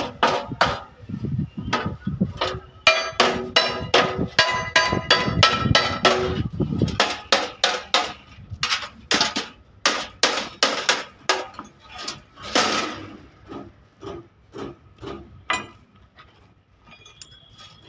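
Repeated hammer blows on a pickup's steel body panel during dent repair, about two to three strikes a second, the sheet metal ringing after many of the blows. The strikes grow fainter and sparser near the end.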